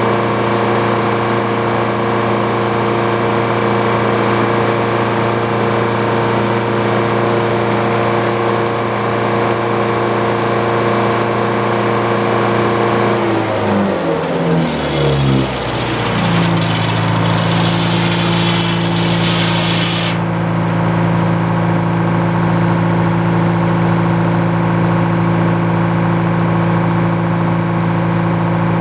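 Engine powering a Frick sawmill, running steadily. About halfway through its pitch falls over a couple of seconds and it settles into a lower, steady run. A high hiss over it cuts off a few seconds later.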